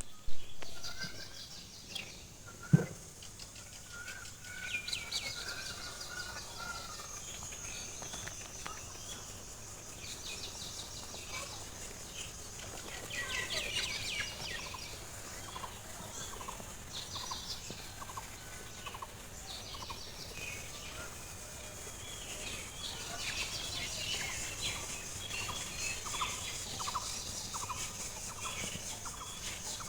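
Birds calling throughout, with many short chirps and rapid clusters of calls, and a sharp knock near the start and another about three seconds in.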